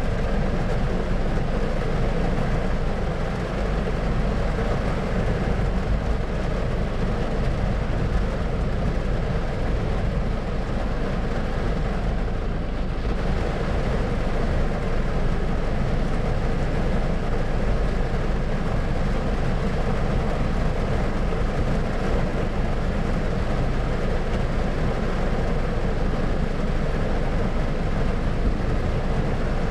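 Thunderstorm white-noise ambience: a steady, deep rumbling noise with no separate claps or drops standing out.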